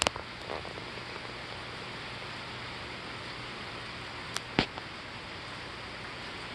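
Steady hiss of rain falling during a thunderstorm, with a few sharp ticks near the start and again about four and a half seconds in.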